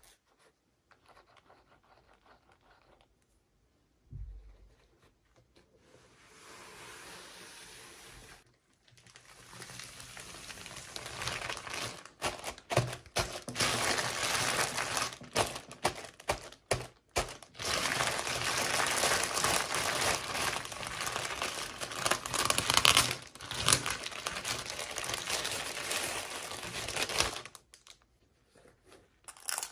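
Plastic toy packaging crinkling and tearing as it is unwrapped, with a short low thud about four seconds in. Dense, crackly handling runs from about nine seconds in and stops shortly before the end.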